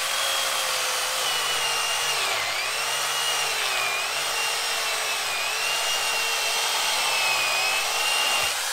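Sun Joe SWJ805E 6-amp electric chainsaw with an 8-inch bar cutting through a 5-inch tree trunk. The motor's whine dips in pitch several times as it bogs down under load, a sign of it struggling with the thicker wood, and cuts off right at the end as the cut finishes.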